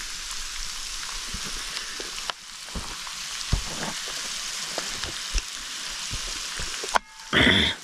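Breaded pike pieces sizzling in hot oil in a frying pan, with scattered small pops of spitting oil. The sizzle cuts out suddenly about seven seconds in, and a brief loud sound follows just after.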